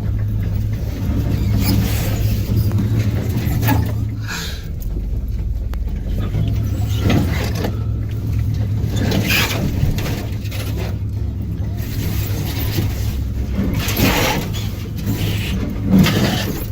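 Lifted pickup truck's engine running steadily at low speed as it crawls over a rough off-road trail, with irregular knocks and scrapes every few seconds.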